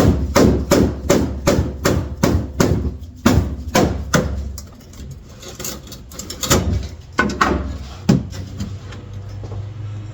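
Hammer blows on the car's sheet-steel floor pan, knocking out an old patch repair: a quick run of about three strikes a second for some four seconds, then three more spaced strikes.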